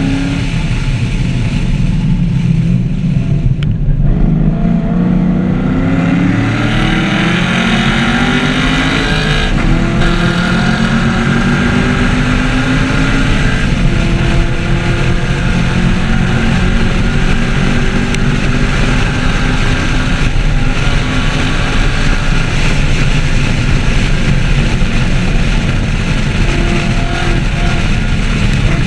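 A 2014 Chevrolet Camaro 1LE's V8 engine running hard on a race track. Its pitch climbs under acceleration, drops sharply at shifts and lifts, then rises and falls again several times.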